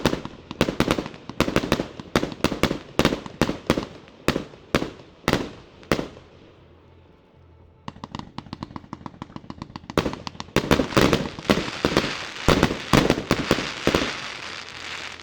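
150-shot fireworks cake of 1 to 1.2 inch calibre firing: a steady run of launches and bangs, several a second, for about six seconds, a short lull, then rapid shots that build into a dense barrage of bangs and crackle near the end.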